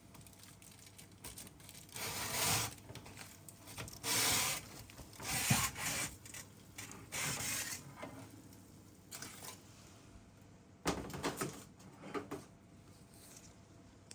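A series of short rubbing and scraping sounds, each about half a second long, with a few sharp clicks about eleven seconds in.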